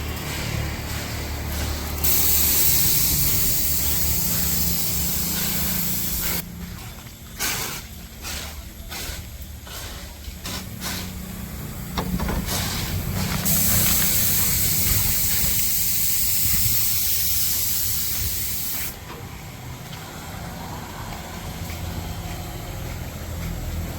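High-pressure washer spray gun hissing in two long bursts, with a run of short on-off squirts between them, over the steady low hum of the washer's motor.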